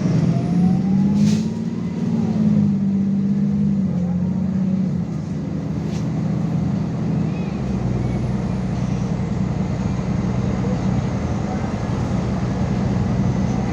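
MAZ 216.066 city bus driving, its engine running steadily; the engine note rises over the first couple of seconds, then holds level. A couple of short clicks come through, one near the start and one about halfway.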